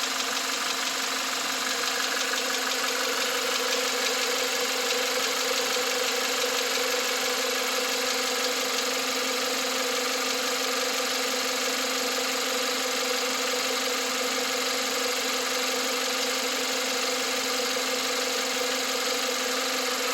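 2021 Volkswagen Atlas's 2.0 TSI EA888 turbocharged four-cylinder engine idling steadily on a cold start, with a knocking, ticking, tapping noise that sets in once the revs come down, despite brand-new oil.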